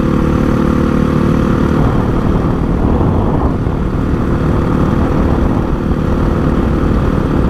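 Honda CRF450 supermoto's single-cylinder four-stroke engine running under way at a fairly steady engine speed.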